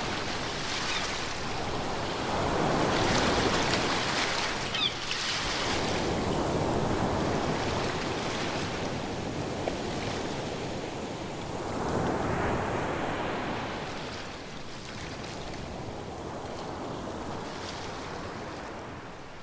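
Ocean waves breaking and washing in slow surges: a long swell a few seconds in, another around twelve seconds, then a softer steady wash.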